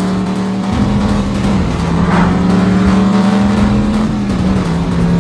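A classic American muscle car's engine running hard at high revs, one strong steady note that steps up slightly in pitch in the first two seconds and drops about four seconds in.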